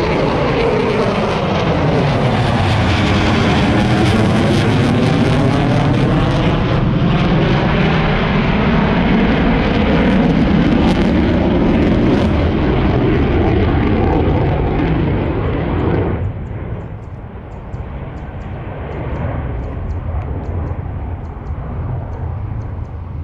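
A military aircraft engine passing overhead: a loud, steady engine noise with a sweeping, phasing quality. It drops away abruptly about two-thirds of the way through, leaving a quieter engine sound.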